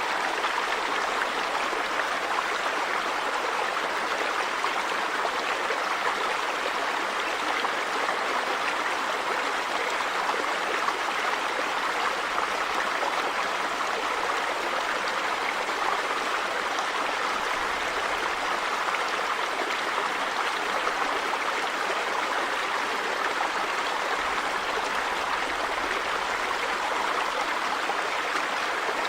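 River water running over rocks, a steady even rush strongest in the middle and upper pitches.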